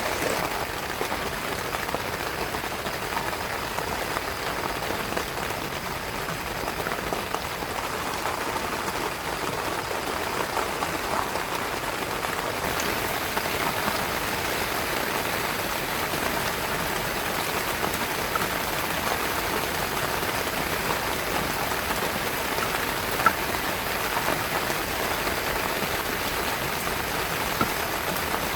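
Heavy rain falling steadily on a tent's fabric, a dense even hiss of drops with a single sharper tap about two-thirds of the way through.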